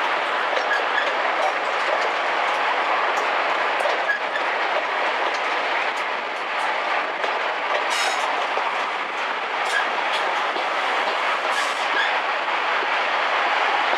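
A train hauled by Class 55 Deltic locomotive 55002, heard from an open carriage window while running: a steady rush of wheel, engine and wind noise, with the wheels clicking over rail joints now and then.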